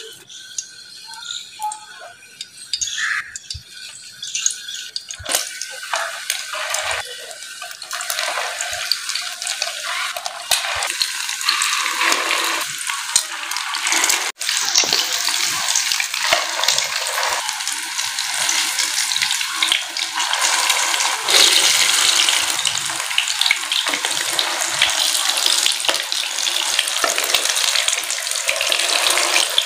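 Egg-coated chicken and vegetable kababs sizzling as they shallow-fry in hot ghee in a pan. The sizzle starts a few seconds in and swells to a loud, steady hiss.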